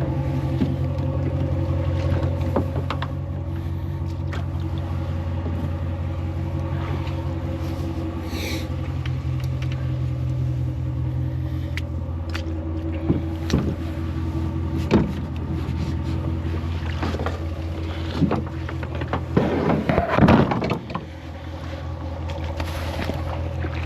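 Truck engine running with a steady low hum. Scattered knocks and clunks, with a short burst of clatter about twenty seconds in.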